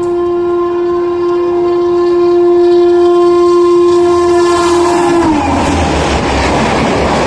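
Gatimaan Express locomotive horn sounding one long steady blast that drops in pitch about five seconds in as the train passes, followed by the loud rush and clatter of the high-speed train going by.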